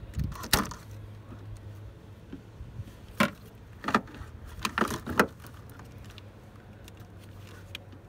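A handful of sharp snips and clicks, one about half a second in and a quick cluster between about three and five seconds in: 8¼-inch shears cutting through the wires of a truck's engine wiring harness, with the harness and its plastic connectors being handled.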